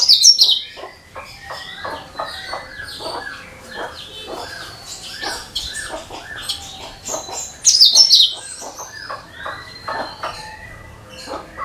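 Cucak kinoi singing: a loud burst of fast, high chattering notes, then a long run of repeated falling whistled notes at roughly two a second. A second loud high burst comes about eight seconds in.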